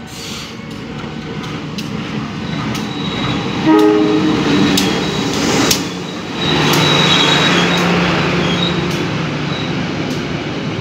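Diesel-hauled local passenger train pulling into a station and passing close by, growing louder. About four seconds in, the locomotive sounds its horn for roughly two seconds; then the locomotive's engine drones past, with the wheels clicking over the rail joints.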